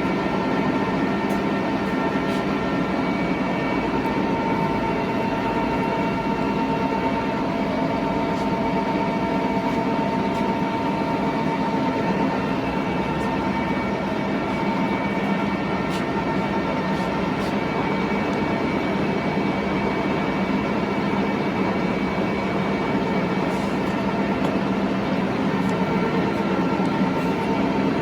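Large Tru-Turn engine lathe running under power, its carriage traversing toward the chuck: a steady mechanical hum with several constant whining gear tones.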